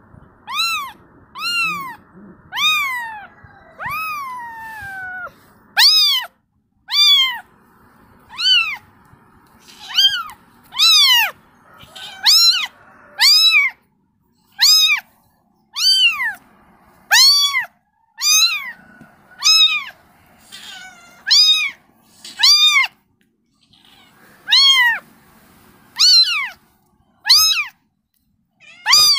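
A kitten meowing over and over, about one high call a second, each rising then falling in pitch. Near the start come two longer calls that slide downward. The kitten is calling for its mother.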